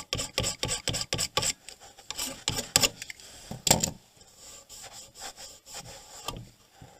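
Scraping strokes on an inverter circuit board, cleaning corroded copper tracks: quick back-and-forth strokes, about four a second, then slower, irregular scrapes that fade out near the end.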